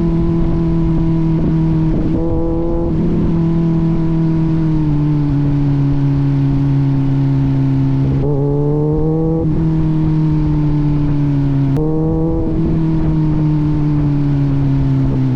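Kawasaki Z900 inline-four running through an aftermarket AR exhaust under way at a steady engine speed. The note shifts briefly about 2, 8 and 12 seconds in.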